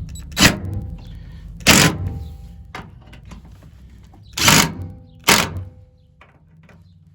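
DeWalt cordless power driver run in short bursts, four main ones, driving screws into a bed extender bracket on a pickup bed.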